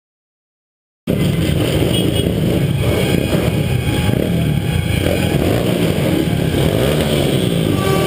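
Motorcycle engines running and revving, the pitch rising and falling, cutting in abruptly about a second in after silence.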